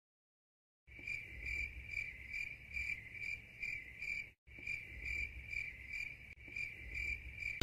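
Crickets chirping in an even, pulsing rhythm of about two to three chirps a second, starting about a second in and cutting out briefly midway.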